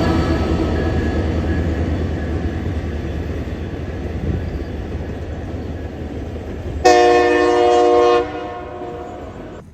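Train running past with a steady rumble that slowly fades, then one loud blast of its horn, a chord of several tones lasting about a second and a half and stopping sharply.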